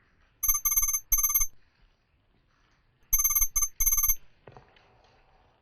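Electronic ringing tone, like a phone ringtone, sounding in two groups of three short bright pulses about two and a half seconds apart.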